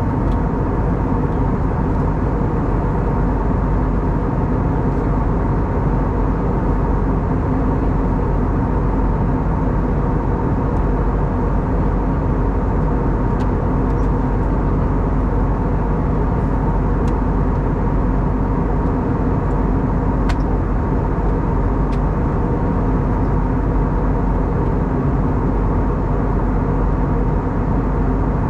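Steady cabin noise of an Airbus A320neo with CFM LEAP-1A engines in cruise: a constant rush of airflow with steady hum tones under it. A few faint ticks come through in the middle.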